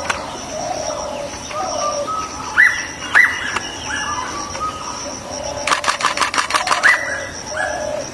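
Short animal calls that rise and fall, coming in pairs, with a quick run of clicks near the end over a faint steady high tone.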